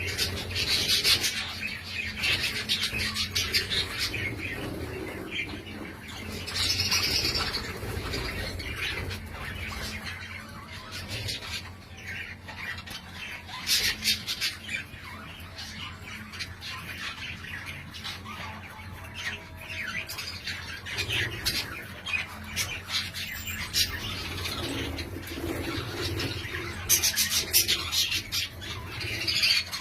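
Budgerigars chattering continuously: a dense run of short chirps, warbles and squawks, with louder clusters of calls now and then.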